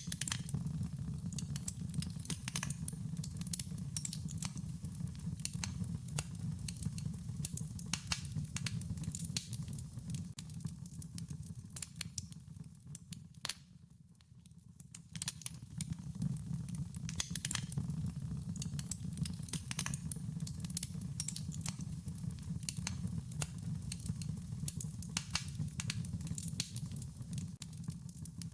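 Wood fire crackling, with frequent sharp irregular pops and snaps over a steady low rumble of the flames. The sound thins out briefly about halfway through, then comes back.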